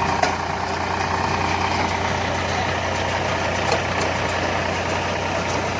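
Preet 4549 tractor engine running steadily at an even speed, with a couple of brief knocks over the steady hum.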